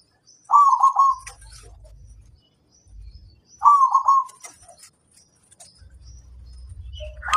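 Zebra dove (perkutut) cooing: two short phrases of a few quick notes, about three seconds apart. Thin high chirps of small birds come and go between them.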